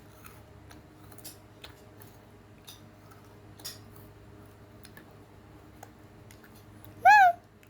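Close-miked eating sounds while chewing strawberry: faint scattered mouth clicks and smacks. Near the end comes one brief, loud, high-pitched squeak that rises and falls.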